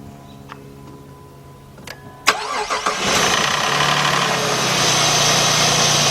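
A 3.7-litre V6 of a 2006 Jeep Grand Cherokee starting: a click about two seconds in, a brief crank, then it catches and settles into a steady fast idle just after start-up. The engine is running with a cylinder 3 misfire (code P0303).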